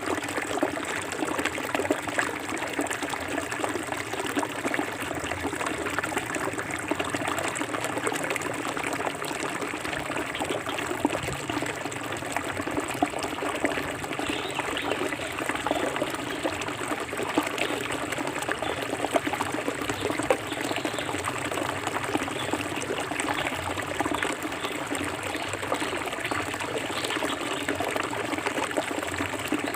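Forest river flowing, a steady rush of running water with many small splashes and trickles throughout.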